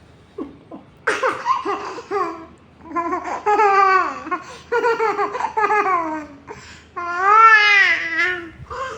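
A young child laughing and babbling in a high voice, in several stretches with short pauses between.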